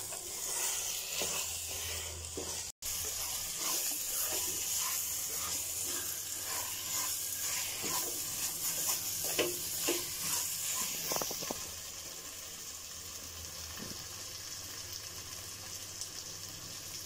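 Rice and vegetables sizzling in hot oil in an open pressure cooker while a wooden spatula stirs and scrapes through them. About twelve seconds in the stirring stops and the sizzle goes on, quieter.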